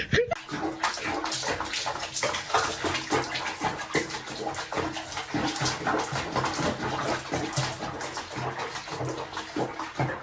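Water splashing and sloshing, irregular and continuous, as in a bathtub.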